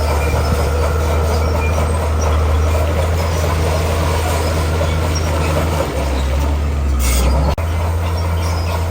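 Heavy diesel earthmoving machinery running steadily under load, its engine note shifting about six seconds in, with a short hiss of air a little after seven seconds.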